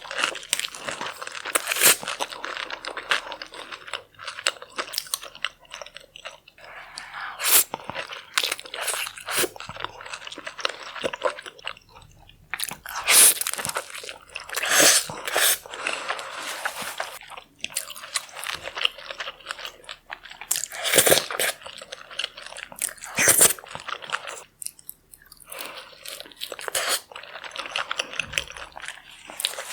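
Close-miked eating sounds: irregular crunching and chewing of seafood, with sharp crackles every second or two.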